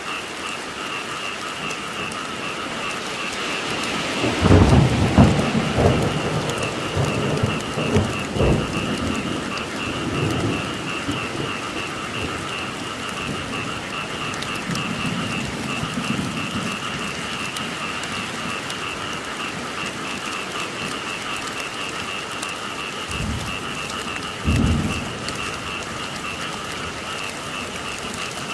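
Steady rain with a continuous chorus of frogs croaking. Thunder rumbles about four seconds in and lasts several seconds, and a shorter rumble comes near the end.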